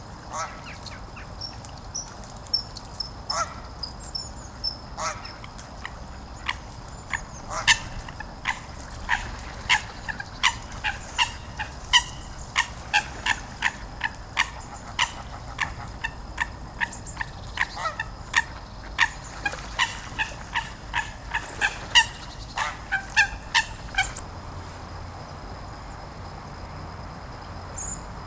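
A flock of geese calling, a rapid run of short honks that thickens in the middle and stops about four seconds before the end. Thin high chirps of a small bird sound during the first few seconds.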